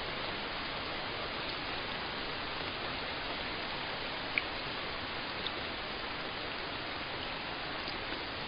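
Steady rain falling, an even hiss with a few distinct drops ticking, one standing out about four seconds in.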